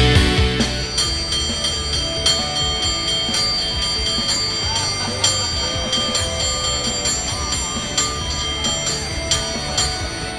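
Cable car bell struck over and over in a quick, syncopated rhythm, about three ringing strikes a second, as a contestant plays it. A music track fades out at the start.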